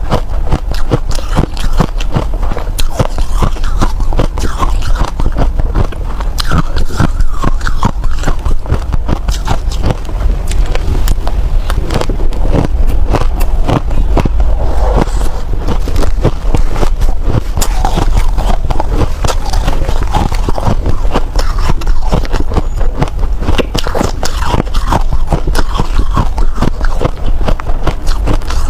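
Snow ice being bitten and chewed close to the microphone: a dense, unbroken run of crisp crunches.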